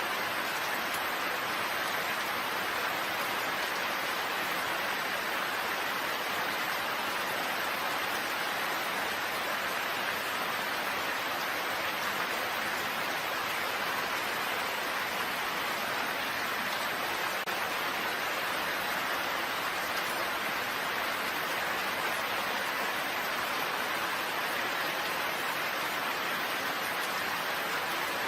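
Steady rain falling, an even hiss with no distinct drops or thunder standing out.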